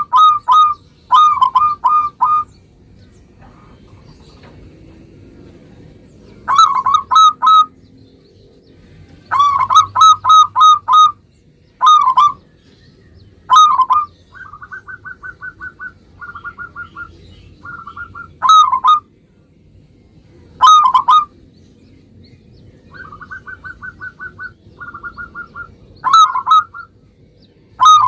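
Zebra dove (perkutut) cooing: loud bursts of rapid, staccato coo notes repeated every few seconds, with quieter, slightly higher-pitched runs of notes between some of the bursts.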